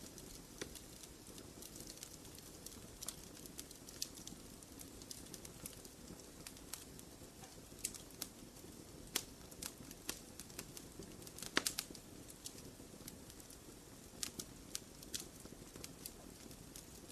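Wood fire crackling in a fireplace: a steady low hiss of burning broken by irregular sharp pops and snaps, a few each second, with one louder pop near the middle.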